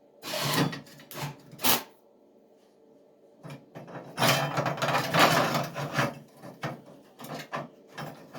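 Electric arc welding crackling in short bursts: a brief spell of about a second and a half, then a longer spell of about four seconds, over a steady low hum.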